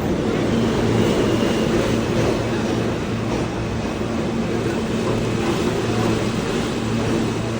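New York City subway train, an E train, running between stations, heard from inside the car: a steady low rumble of wheels on track and motor hum.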